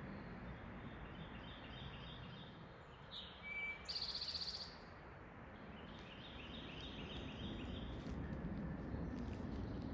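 Wild birds singing: series of short repeated chirps, with one louder rapid high trill about four seconds in, over a steady low background rumble.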